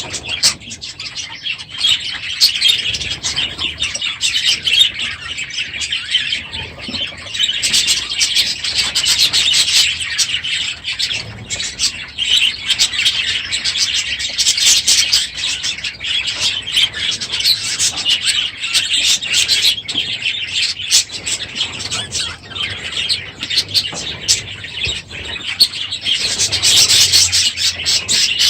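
A large flock of budgerigars chattering and chirping loudly all at once, a dense, unbroken twittering of many overlapping calls from a crowded aviary.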